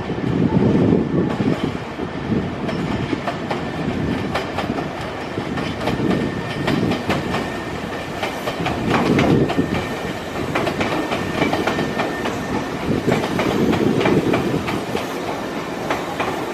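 Nankai Railway electric train running on track, its wheels clattering over rail joints in a rhythm of sharp clicks over a continuous rumble, with a faint steady whine.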